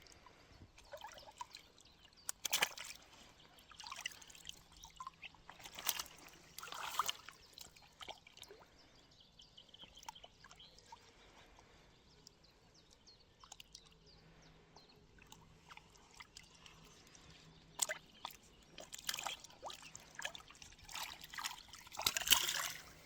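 Water splashing and trickling in short, irregular bursts, with a louder run of splashes near the end.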